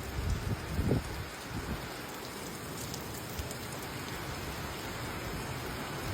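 Heavy tropical rain pouring down, a steady hiss, with a few low thuds in the first second.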